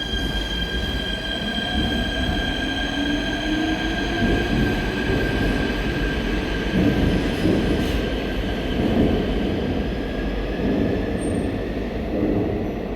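Seoul Subway Line 4 electric train running at the platform: a steady high squeal with overtones over the rumble of wheels and running gear, and a lower motor tone slowly rising in pitch.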